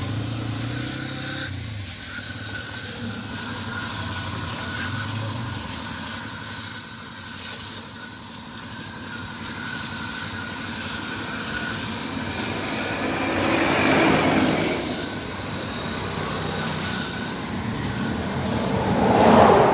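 Compressed-air diesel spray gun hissing steadily as it sprays, swelling louder about two-thirds of the way in and again at the end.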